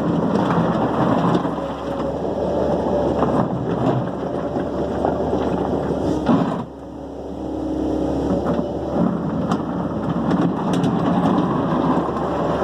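Dump truck's engine running with a continuous heavy rumble. A sharp bang comes about six seconds in, after which the sound drops briefly and then builds again.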